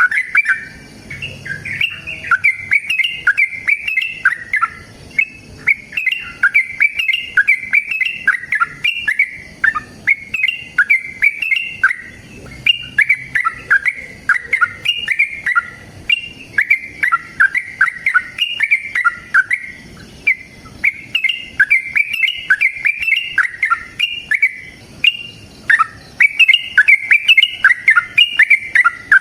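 Yellow-vented bulbul (trucukan) singing loud, rapid bubbling phrases of chattering notes almost without pause, the long fast song used as a lure to set other bulbuls singing.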